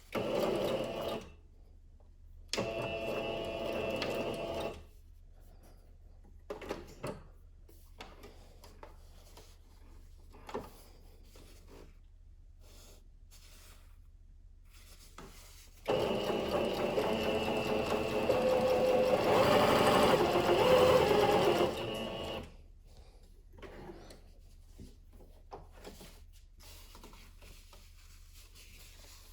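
Singer Curvy sewing machine running in three bursts: a short one at the start, a second of about two seconds soon after, and a longer one of about six seconds past the middle that gets louder toward its end. A few short clicks fall in the quiet between runs.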